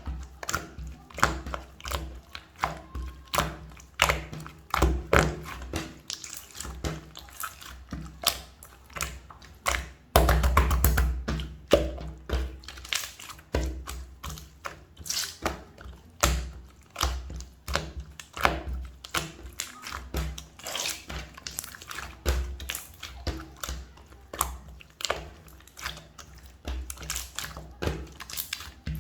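Clear slime being pressed, poked and stretched by hand, giving a quick, irregular run of sticky clicks and small pops. About ten seconds in there is a longer, denser stretch of squishing.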